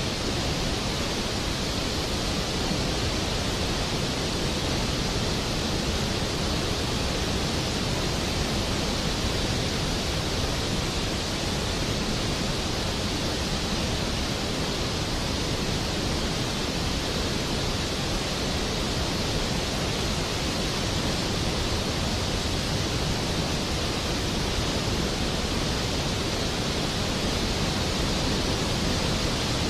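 Steady rain falling as an even, unbroken hiss, with no thunder.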